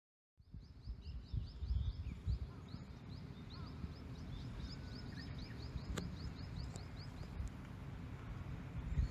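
A bird calling in a fast run of short, repeated high chirps, about four a second, that stops near the end, over a low outdoor rumble.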